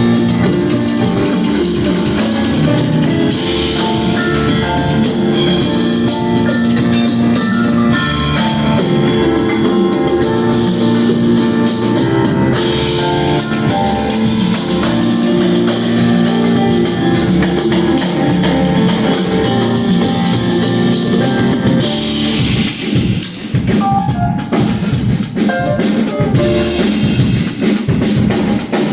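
A live band playing loud music, driven by a drum kit, with a short drop in the drumming about three-quarters of the way through before the full band comes back in.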